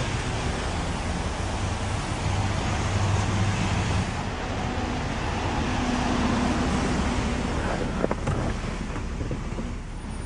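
1993 Mazda RX-7's twin-turbo 13B twin-rotor rotary engine idling steadily after start-up. A single sharp click comes about eight seconds in.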